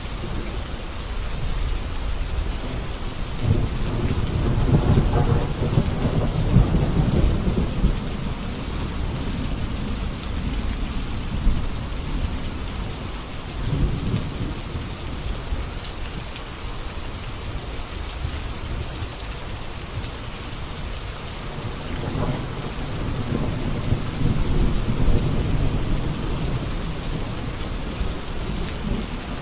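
Steady rain falling during a thunderstorm, with long rolls of distant thunder rumbling a few seconds in and again past the middle.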